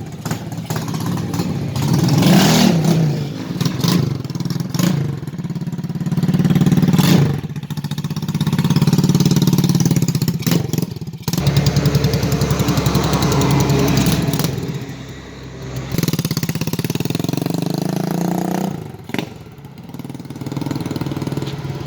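Honda TMX 155 motorcycle's single-cylinder four-stroke engine running, its revs rising and falling.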